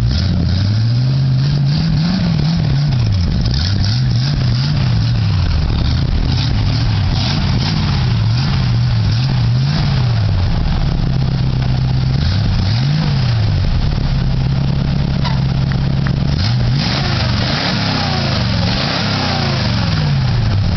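1961 Chevrolet truck engine revving up and down repeatedly in short blips, holding steady for a few seconds partway through, then revving again near the end.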